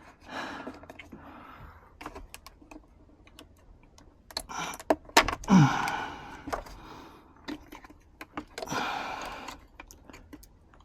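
Sharp plastic clicks and rustling from car interior wiring connectors and trim pieces being handled and unclipped, with a louder scraping rustle about five seconds in.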